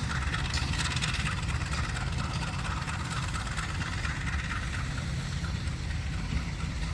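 CC 204 diesel-electric locomotive idling with a steady low rumble, waiting to move off.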